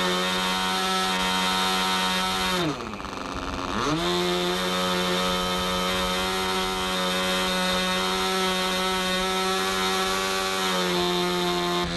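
Small engine of a radio-controlled model airplane buzzing steadily at high revs; about three seconds in it is throttled back, the pitch dropping sharply, then opened up again a second later.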